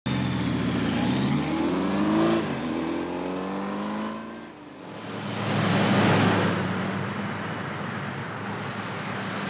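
Police motorcycle engines running and revving, rising in pitch as they pull away. After a short dip there is a rushing swell about six seconds in, then a steady engine drone with road noise inside a moving patrol car.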